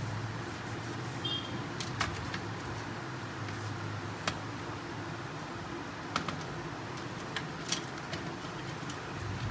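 Scattered sharp clicks and taps of printer parts and small fittings being handled during reassembly of a laser printer, over a steady low background hum.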